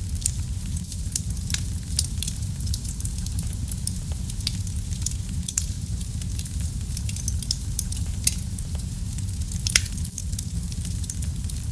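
Wood fire burning in a fireplace: a steady low rumble with frequent small crackles and pops, and two sharper pops a second and a half apart in the last few seconds.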